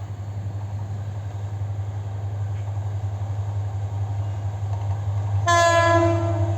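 Hyundai Rotem diesel locomotive running with a steady low hum that grows slowly louder, then its horn sounding one loud blast about five and a half seconds in, lasting about a second.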